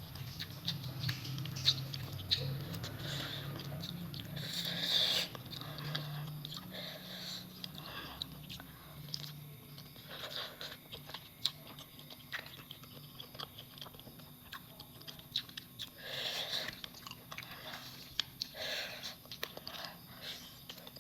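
A person eating close to the microphone: chewing and biting, with wet mouth clicks and occasional crunches.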